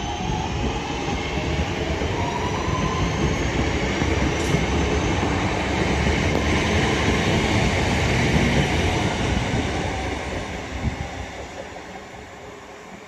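Northern Class 323 electric multiple unit departing and accelerating. Its traction motors give a rising whine over the rumble of wheels on rail. The sound builds to its loudest about eight seconds in, then fades as the train draws away.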